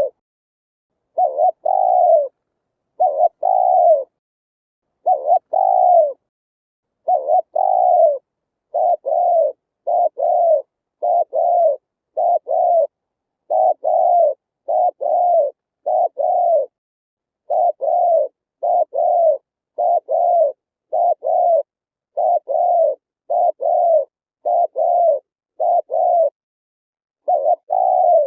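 Spotted dove cooing: a long, even series of short, low coos, each sliding down in pitch, delivered mostly in pairs and short groups with brief pauses between.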